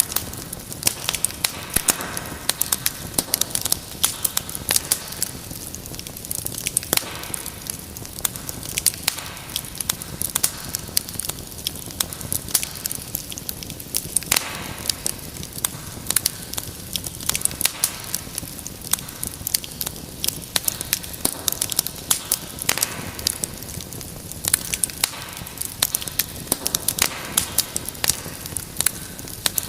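Wood fire crackling, with frequent irregular sharp pops and snaps over a steady soft hiss of burning.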